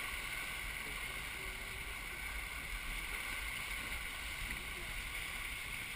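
Steady rush of water along the hull of a Melges 24 sportboat under sail, mixed with wind noise.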